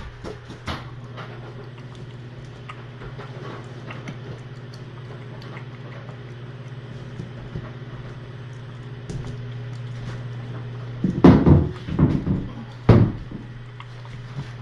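A steady low hum under scattered light clicks, then a cluster of knocks and rustling about eleven seconds in and one sharp knock about two seconds later: things being handled and set down in a small room.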